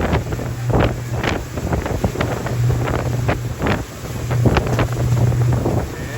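Passenger ferry's engines droning steadily, with wind gusting over the microphone.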